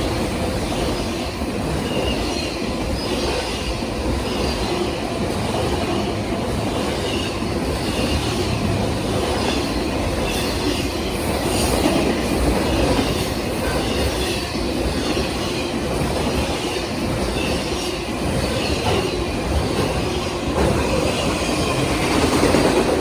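Union Pacific autorack freight cars rolling past: a steady rumble of steel wheels on rail, with clacks over the rail joints and short, faint wheel squeals.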